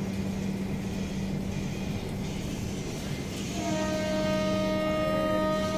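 Train running noise with a steady low hum; a little past halfway, a train horn sounds one steady, unwavering blast lasting about two and a half seconds.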